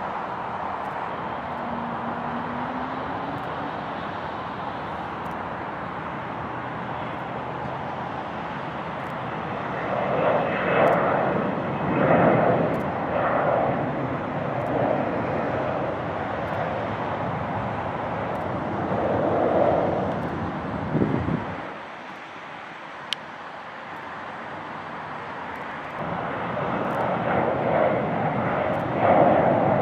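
Jet aircraft engine noise: a steady rush that swells louder in uneven waves about a third of the way in, drops away abruptly after about twenty seconds, then builds again near the end.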